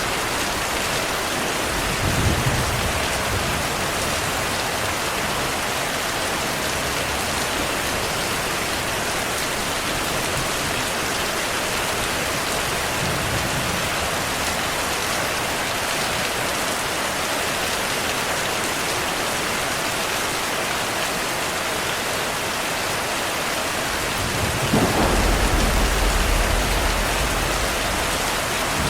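Heavy rain falling steadily in a thunderstorm. A short rumble of thunder comes about two seconds in, and a longer, louder roll of thunder comes near the end.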